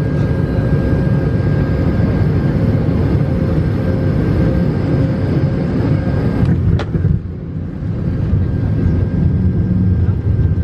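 Cabin noise aboard an Airbus A220-300: the steady low rumble of its Pratt & Whitney PW1500G geared turbofans, with faint steady tones over it. A click comes about seven seconds in, after which the sound turns duller.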